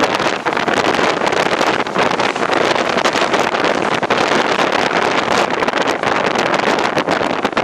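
Express train running at speed, heard with a steady rush of wind buffeting the microphone over the train's running noise.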